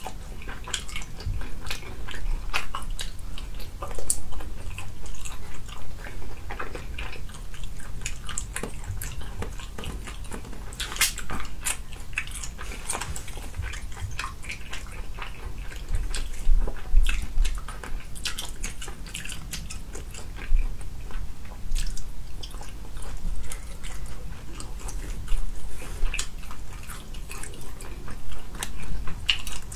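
Close-miked chewing and biting of chewy, springy braised food, with many irregular wet smacks and clicks.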